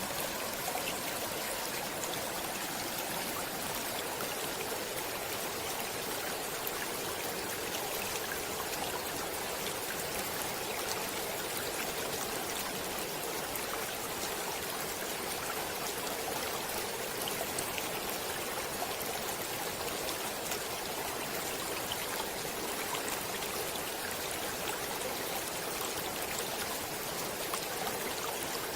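Water flowing in a stream, a steady, even rush with many small splashes and droplets through it.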